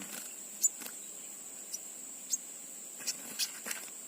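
Steady, high-pitched insect drone, like a cricket, running without a break. About five short, sharp high chips stand out over it, a little under a second in, then around two and a half seconds in and three times near the end.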